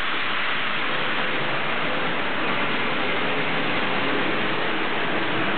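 HO-scale model trains running on a layout: a steady rushing noise, with a faint steady whine for a few seconds in the middle.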